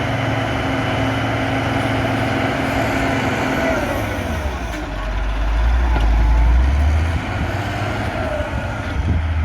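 Diesel engine of a Cat 140G motor grader running steadily at work. About halfway through, its note drops lower and grows louder for a couple of seconds, then settles again.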